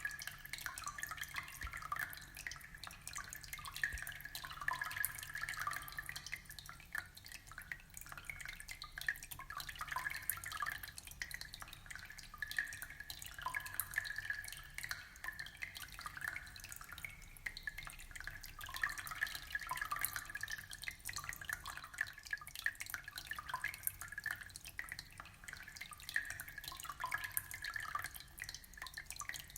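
Aquarium water trickling steadily, a continuous patter of many small drips and splashes.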